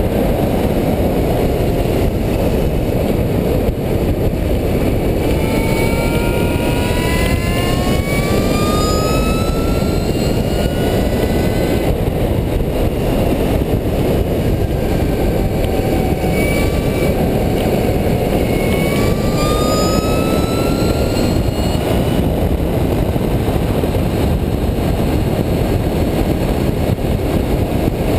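Electric bicycle at racing speed: a loud, steady rush of wind on the handlebar-mounted microphone, with the high whine of its electric motor rising in pitch as it accelerates, once about a fifth of the way in and again about two-thirds through.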